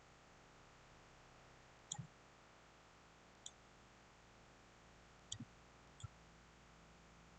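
Computer mouse buttons clicking about five times at uneven intervals over a faint steady hiss.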